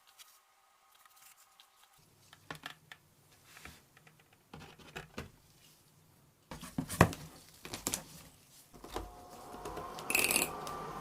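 Handling noises on a work surface: scattered clicks and knocks, with one sharp knock about seven seconds in. About nine seconds in a steady hum with a faint tone starts and continues.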